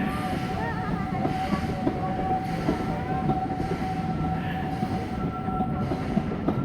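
Steam train running, a steady rumble of wheels and carriages with irregular knocks, and a steady high tone held over it for most of the time.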